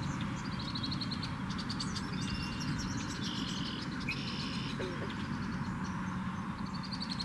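Marsh birds chirping, with quick repeated high notes and short trills, over a low wind rumble on the microphone.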